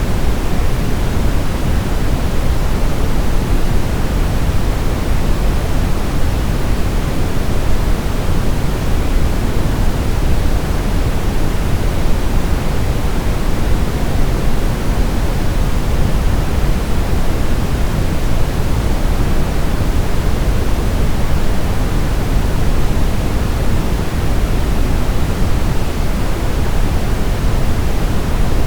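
Steady brown noise: a constant deep rushing hiss, weighted to the low end, with no changes or events.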